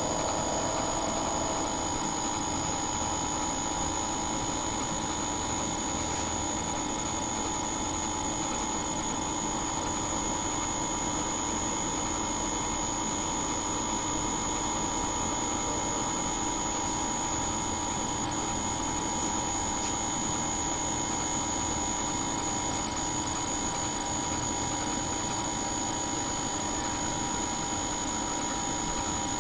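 Steady machine-like hum with a constant high whine over it, unchanging throughout.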